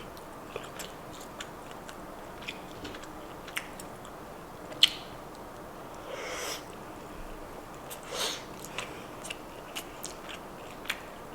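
Close-miked mouth chewing of thick, chewy beef tapa, with scattered wet clicks, a sharp click about five seconds in and two short breathy swells a little later.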